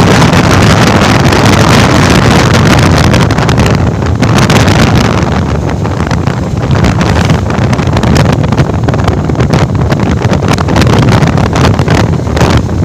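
Heavy wind rushing and buffeting over the microphone of a moving motorcycle, with the Bajaj Pulsar 220F's single-cylinder engine running under it.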